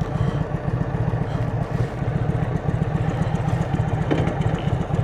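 Indian Chieftain's Thunderstroke V-twin engine running at low revs through a Freedom Performance exhaust, a steady, lumpy low rumble.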